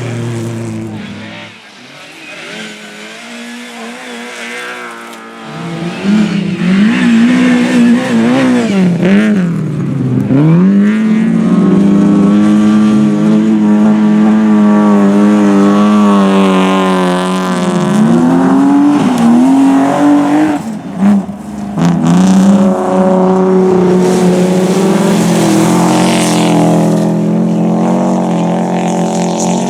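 Rally car engine revving hard, its pitch climbing and dropping repeatedly through gear changes and lifts. It is fainter at first and grows loud about six seconds in as the car comes close.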